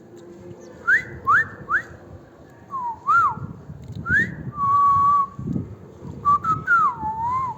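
Whistling: three quick rising whistles, then wavering notes, a long steady note midway, and a wavering, falling phrase near the end.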